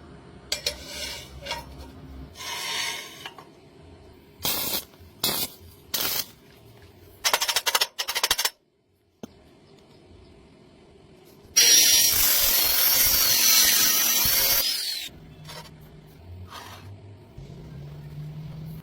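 Metalworking tool sounds, cut together: short bursts of scraping and clicks, then a loud noise lasting about three and a half seconds with a wavering high whine through it, followed by a softer low hum.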